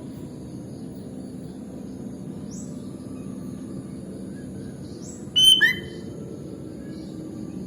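Sooty-headed bulbul (kutilang) giving one loud, short two-note whistled call about five and a half seconds in, the second note lower than the first. Fainter high rising chirps come before it, over a steady low background hum.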